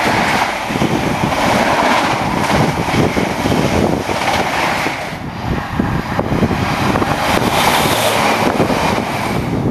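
Diesel passenger train passing close below, a steady rolling rumble of wheels on the track, with wind buffeting the microphone.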